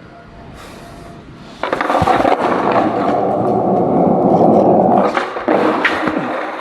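Skateboard wheels rolling loudly over wet pavement, starting suddenly about a second and a half in, with a few sharp clacks of the board and a brief dip near the end.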